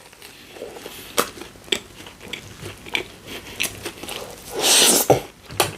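Close-miked chewing and biting of a Subway sandwich, with many small wet clicks and smacks. A louder, hissing rush lasts about half a second a little before the end.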